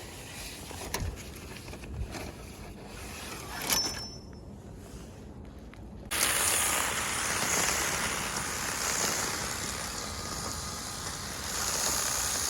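Faint scattered clicks and knocks, then a steady rushing noise like wind across the microphone that starts suddenly about six seconds in.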